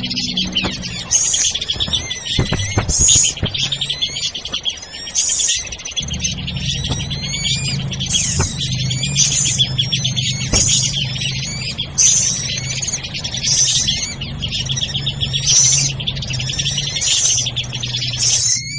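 Bird-lure recording of agitated drongo (srigunting) calls: a dense, busy chatter with loud high-pitched call bursts and whistled glides recurring every second or two. A steady low hum runs beneath from about six seconds in.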